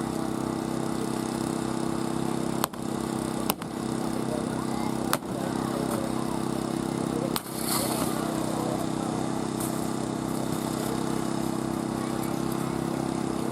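Engine of a hydraulic rescue-tool power unit running steadily, driving the spreaders and cutters, with four sharp metallic cracks and a brief hiss as the tools work on the car's body.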